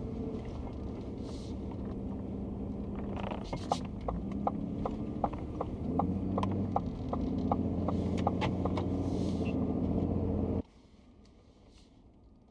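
Vehicle engine idling with a steady low hum, with a run of quick regular clicks, about two to three a second, through the middle; the sound cuts off abruptly near the end.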